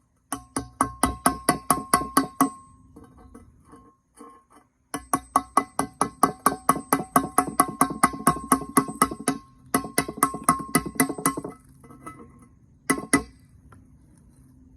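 Rapid, even taps of a tool chipping glaze off a kiln shelf. Each strike sets the shelf ringing with a clear, bell-like tone. There are three long runs of tapping with short pauses between them, and a brief burst near the end.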